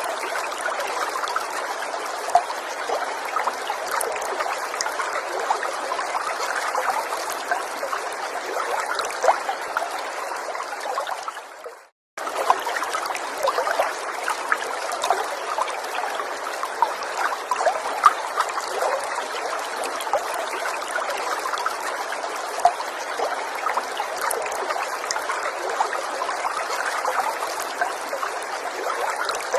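Small forest stream trickling and babbling steadily, with many little splashes and gurgles. About twelve seconds in, the sound fades to a moment of silence and then starts again abruptly.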